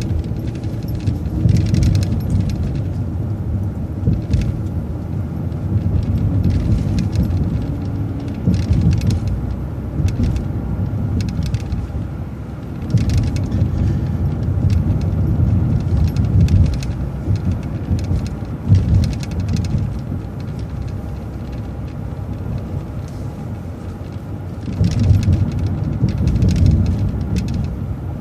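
City transit bus driving between stops, heard from inside: a steady low rumble of engine and road noise that swells and eases every few seconds, with frequent short rattles and clatter from the bus body and fittings.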